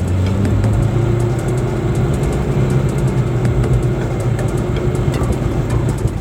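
Lada Niva's engine running hard under load, a steady low drone that rises slightly in pitch, as the car pushes through deep snow. Many small sharp clicks and knocks sound over it.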